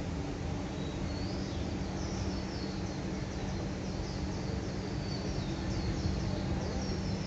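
Small birds chirping repeatedly in short high calls over a steady low background hum.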